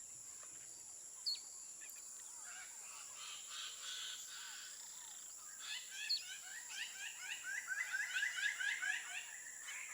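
Greater birds of paradise calling during their courtship display: a run of short repeated calls, about three a second, that starts about halfway through and grows louder. A steady high insect drone runs under them.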